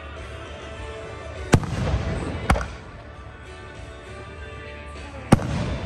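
Aerial firework shells bursting: three sharp bangs, about one and a half, two and a half and five and a quarter seconds in, the first trailing off in a low rumble. Music plays underneath.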